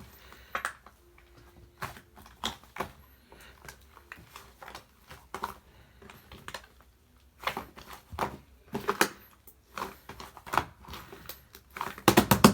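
Mixed slime being squished and poked by hand, giving irregular sticky clicks and pops, with a quick loud run of pops near the end.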